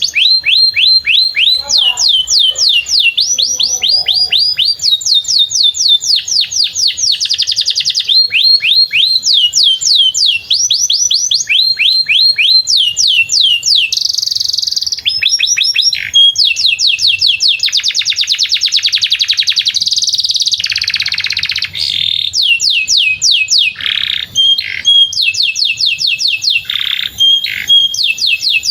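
Domestic canary singing a long unbroken song: rapid trills of repeated down-slurred notes, the phrase switching every second or two.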